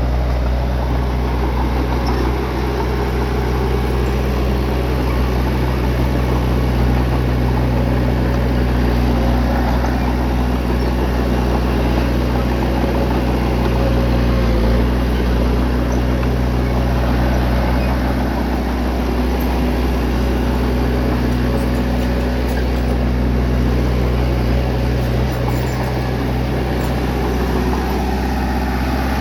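Bulldozer's diesel engine running steadily at an even speed, a deep drone that holds the same pitch throughout.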